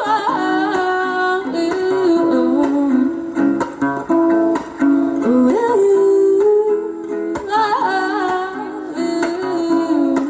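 Acoustic guitar played in an instrumental break of a song, with a wordless sung voice wavering over it near the start and again about halfway through.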